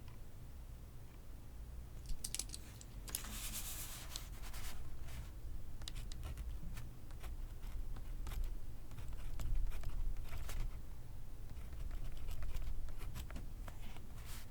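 Pencil writing on paper: short, irregular scratchy strokes with pauses between them, and a longer stretch of dense scratching about three to four seconds in.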